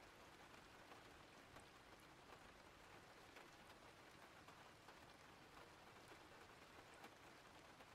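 Faint, steady rain falling, with scattered light ticks of drops.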